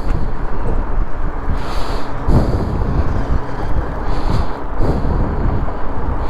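Wind buffeting the microphone of a helmet-mounted GoPro at riding speed on an electric fat bike: a steady heavy rumble with two brief hissier gusts.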